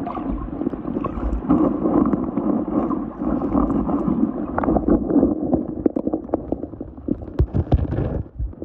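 Water sloshing and gurgling with wind on the microphone, and a run of sharp knocks and taps in the second half.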